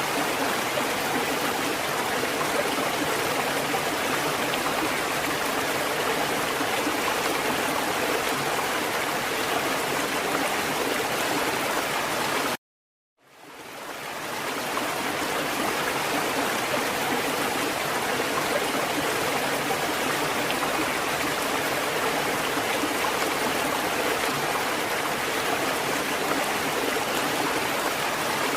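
Water fountain running with a steady rush of flowing, splashing water. About two-thirds of the way through it cuts out to silence for half a second, then fades back in.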